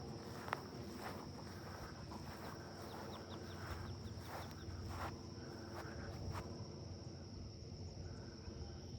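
Steady high-pitched insect drone, with faint calls from sandhill cranes in the distance and a quick run of small chirps about three seconds in.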